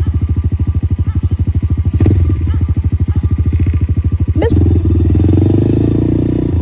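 Dirt bike engine idling with a rapid, even chug. About four and a half seconds in there is a sharp click, and the engine picks up and runs faster and smoother.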